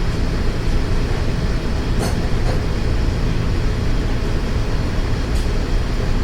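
Steady low mechanical drone, with a couple of light clicks about two seconds in and again near the end.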